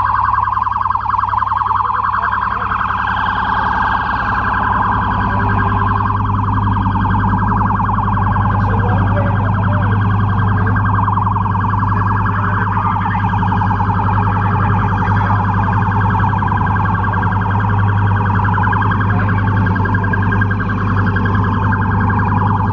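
Police siren sounding continuously with a fast, even warble, over a steady low rumble.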